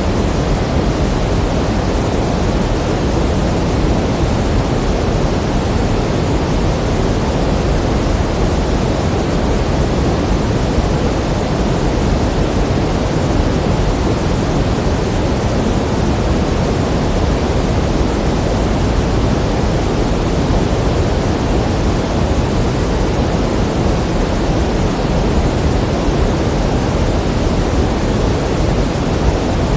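Pink noise: a steady, even hiss, fuller in the low end than in the high, with no change throughout.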